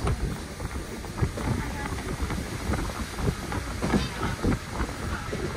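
Berner Oberland Bahn narrow-gauge train running along the line: a steady rumble with irregular knocks from the wheels and track, and people's voices in the background.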